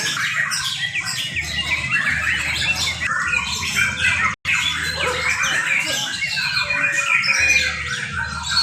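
Several young white-rumped shamas singing at once in a contest, a dense tangle of overlapping whistles, trills and chattering phrases. The song drops out for an instant about halfway.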